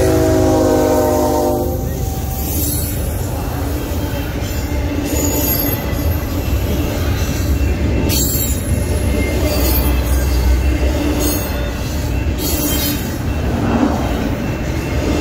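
Union Pacific freight locomotive's air horn sounding a chord, cutting off about a second and a half in. Then the steady low rumble of the intermodal train rolling past, with brief high wheel squeals every few seconds.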